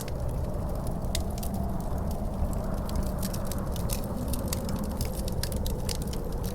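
Wood fire crackling in a fireplace, with many quick sharp pops, over a steady low wind rumble carrying a faint wavering howl.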